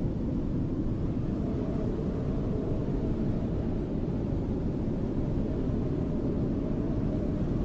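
Snowstorm wind blowing steadily: a deep, even rush with most of its weight low and little hiss above.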